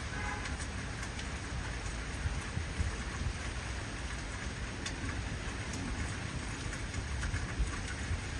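Heavy rain falling steadily, with individual drops ticking on a surface over a low rumble.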